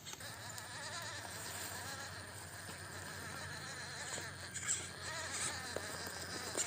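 Electric motor and gearbox of an MN99S RC crawler whining as it drives, the pitch wavering up and down with the throttle and load.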